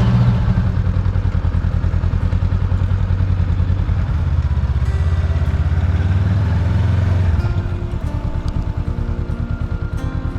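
Small motorbike engine running with an even, rapid pulse just after being started, settling a little quieter about seven and a half seconds in.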